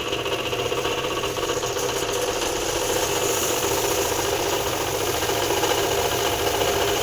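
Pressure washer's motor and pump running steadily, with a rattling mechanical hum.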